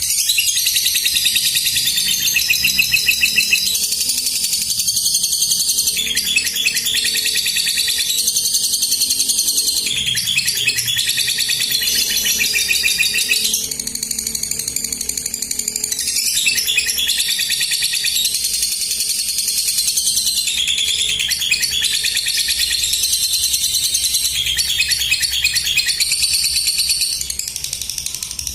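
Lovebird singing the 'ngekek' song: long runs of rapid, high-pitched chattering trills with hardly a pause, easing off briefly midway and near the end.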